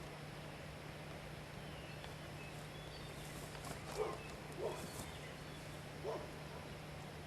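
An animal calls three times, short and low-pitched, about four, four and a half and six seconds in, with faint high bird chirps around them.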